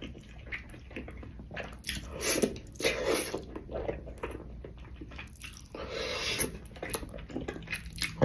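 Close-miked eating: a person chewing spicy noodles and rice cakes, with irregular wet mouth clicks and squishes.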